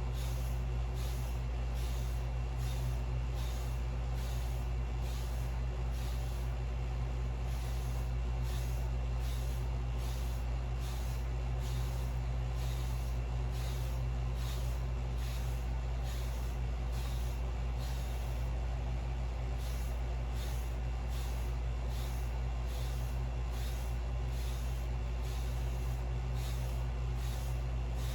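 Hairbrush strokes, a Torino Pro medium-bristle brush swept repeatedly over short wavy hair, as short hissy swishes about twice a second, over a steady low hum.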